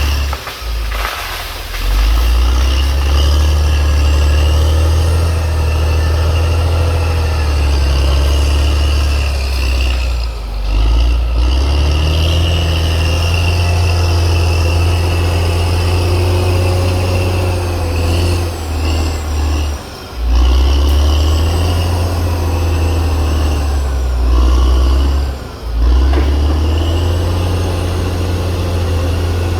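Caterpillar D6R XL bulldozer's diesel engine running steadily with a deep low rumble. Its level falls away briefly a few times and then picks up again.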